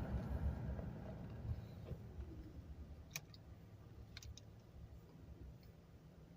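Low car rumble fading away steadily, with two brief groups of sharp clicks about three and four seconds in.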